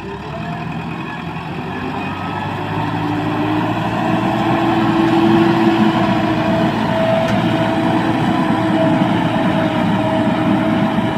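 Heavy diesel engine running steadily, growing louder over the first few seconds and then holding, with a steady whine above the engine note.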